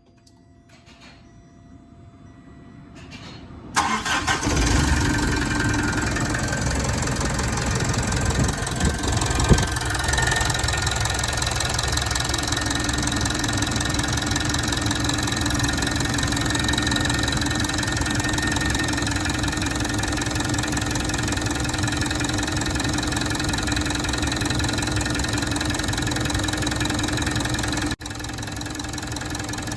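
Mitsubishi Fuso Canter's 4P10 four-cylinder diesel engine starting about four seconds in, then running steadily. The engine had been refusing to start, a fault the owner blames on a control part rather than the engine itself.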